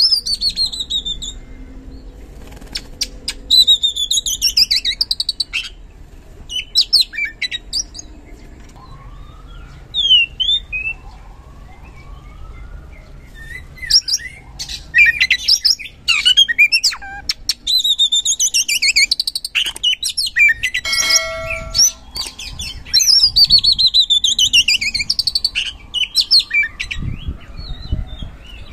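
Oriental magpie-robin (kacer) singing a loud, varied song of clear whistles, with several quick runs of falling notes among shorter phrases and pauses.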